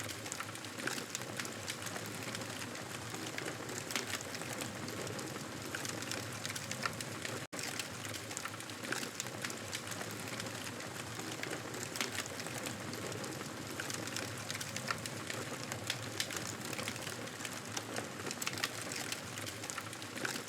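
Wood fire crackling: a steady hiss with many small sharp pops and snaps scattered through it. The sound cuts out for an instant about seven and a half seconds in.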